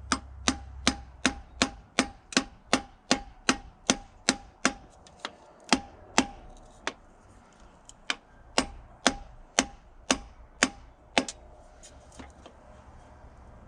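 Light, rapid taps from the butt end of a tool handle on a piston crown, driving the piston through a ring compressor into the cylinder sleeve of a Terex PT75 engine. About three taps a second, each with a short metallic ring, with a brief pause about seven seconds in and stopping about eleven seconds in.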